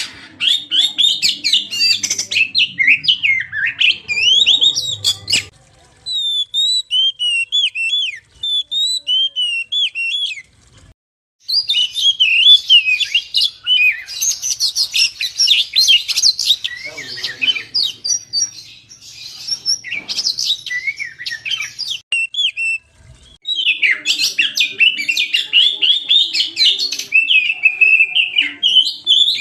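Oriental magpie-robin (kacer) singing a fast, varied song of chirps, trills and whistles. There is a thinner, quieter stretch about a quarter of the way in and two brief pauses, about a third and three-quarters of the way through.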